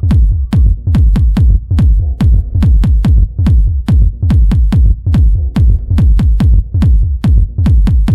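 Hardgroove techno track: a deep kick drum on every beat, about two a second, each thump falling in pitch, with sharp percussion hits ticking between the kicks.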